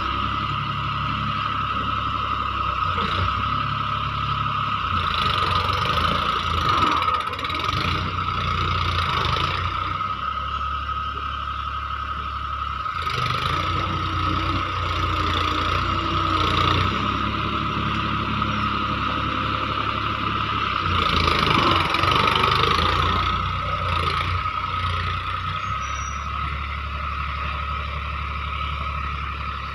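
Tractor engine running steadily, its speed changing a few times, with a constant high whine over the low engine note.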